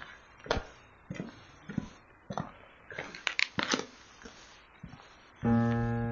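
Footsteps crunching over debris, about one and a half steps a second, with a burst of extra crunching about three seconds in. About five seconds in, background music with sustained keyboard chords starts.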